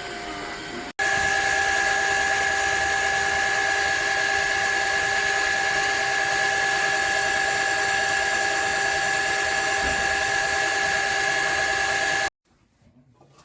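Motor of a Shark HydroVac cordless wet-dry vacuum-mop running steadily, a loud even rush of suction with a high whine over it. It starts abruptly about a second in and cuts off near the end.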